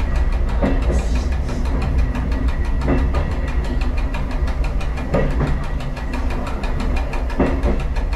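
Diesel train running along a single line: a steady engine drone, with a clack of the wheels over a rail joint about every two seconds, four times.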